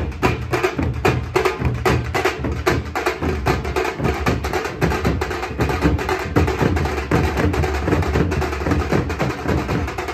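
Tasha drum group playing a fast, dense, continuous rhythm of stick strokes with a heavy bass underneath.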